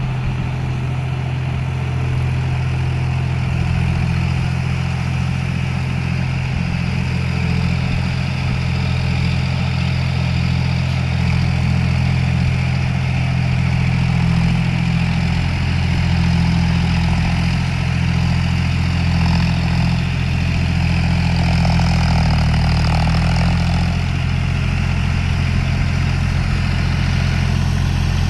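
John Deere 5050D tractor's three-cylinder diesel engine running steadily, with a slight change in tone about twenty seconds in.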